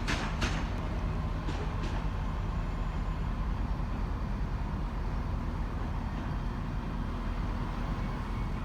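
Train noise on a station platform: a few sharp wheel clicks over rail joints in the first two seconds, then a steady low rumble.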